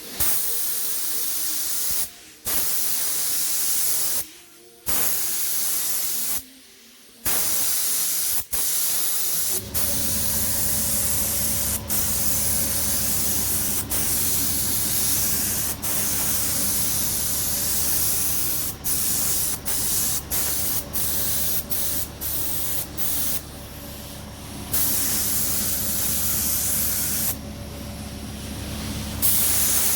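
High-pressure spray hissing in bursts, stopping and starting with short gaps. About ten seconds in, a motor starts up underneath and runs steadily while the spraying goes on.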